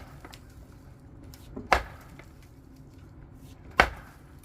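Nails being driven into deck lumber: two sharp, loud wooden impacts about two seconds apart, each with a lighter knock just before it.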